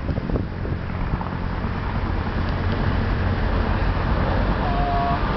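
Marine AH-1 Cobra attack helicopter's rotor and turbine noise, a steady low rumble that grows slightly louder.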